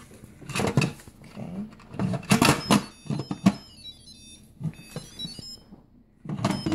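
Instant Pot lid being set on and turned into place: several clattering metal knocks and scrapes, with a run of short, high ringing tones in the middle.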